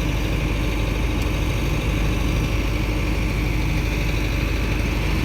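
Heavy diesel engine of a construction vehicle idling steadily.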